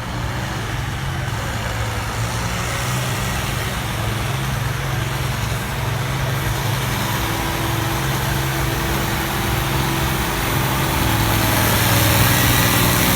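Farmall 560 tractor engine running hard at a steady pitch during a tractor pull, slowly growing louder, with a rising hiss toward the end.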